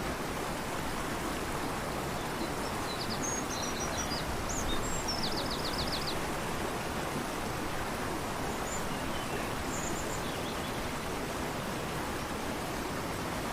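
Steady rush of a fast-flowing river, with a bird's high chirps over it a few seconds in, including a quick run of about seven notes, and a few faint chirps later.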